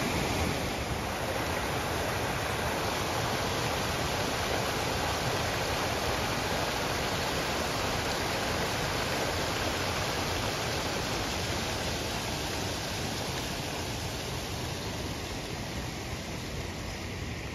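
Steady rushing of water pouring over an old man-made waterfall, a constant even hiss that eases slightly toward the end.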